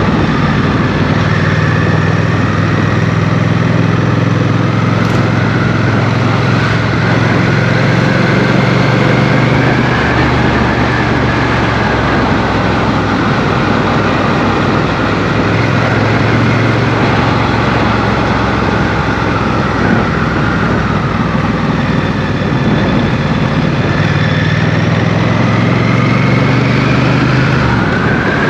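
Motorcycle engine running while riding, its pitch rising and falling several times with throttle and gear changes, over steady wind and road noise.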